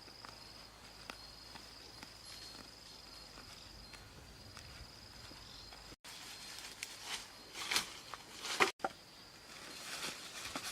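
A steady high insect buzz for about six seconds. After a sudden break it gives way to a run of irregular rustling, scraping noises, loudest near eight and a half seconds.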